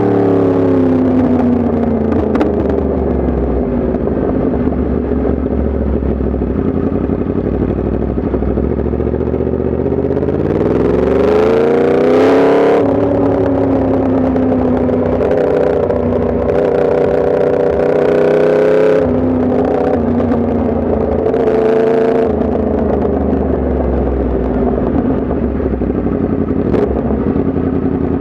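Yamaha MT-10 SP's crossplane inline-four engine under way on the road: it slows down at first, revs up strongly about ten seconds in, then runs at a steady cruise with a couple of small shifts in pitch.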